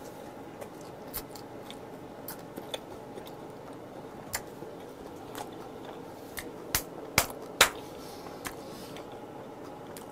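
Close-miked chewing of a perilla-leaf wrap of grilled freshwater eel with raw garlic: scattered soft wet clicks and crunches, with a few louder ones bunched about seven seconds in, over a faint steady hum.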